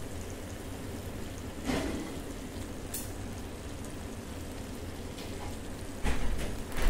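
Sauced chicken sizzling in a pan, a steady crackling hiss, with a few short knocks and a louder clatter near the end.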